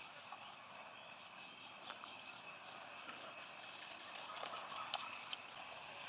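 Faint outdoor ambience with a steady high hiss and thin high tones, broken by a few short bird calls about two seconds in and again near five seconds.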